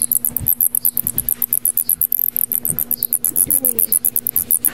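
Big brown bat chittering in protest while it is handled: a fast, even run of short, high squeaks, about ten a second.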